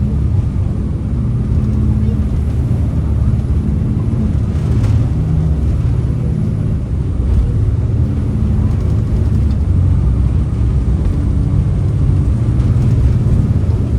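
Jet boat's turbo diesel engines running hard at speed, a steady deep rumble whose pitch shifts now and then.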